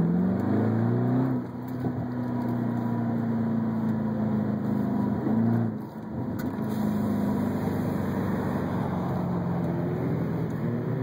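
Jaguar XFR's supercharged 5.0-litre V8, heard from inside the cabin while driving. The engine note climbs for the first second and a half, drops as it shifts up, then holds steady. It dips briefly near six seconds and starts to climb again near the end.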